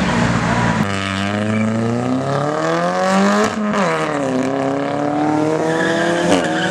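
Car engine pulling hard: its pitch climbs steeply, drops sharply with a crack about three and a half seconds in, climbs again and drops once more near the end.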